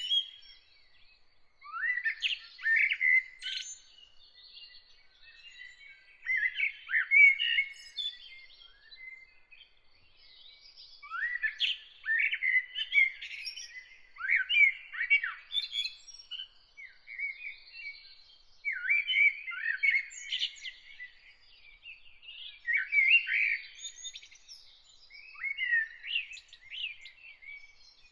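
Songbird singing in repeated phrases of quick chirps and warbles, each phrase a second or a few long, with short pauses between them.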